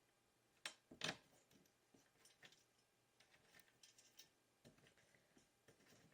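Faint, scattered small clicks and ticks of a metal bolt and washer being handled and started by hand into a bookcase board, with two sharper clicks about a second in.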